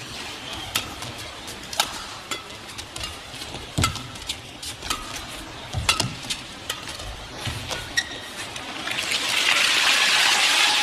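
Badminton rally: rackets striking the shuttlecock in sharp cracks about once a second, with shoe squeaks on the court, over a murmuring arena crowd. Near the end the crowd breaks into cheering and applause as the rally is won.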